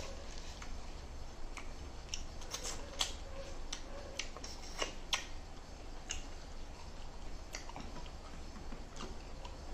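Close-miked eating sounds: irregular clicks and smacks of chewing and mouth sounds, with a few sharper clicks about three and five seconds in.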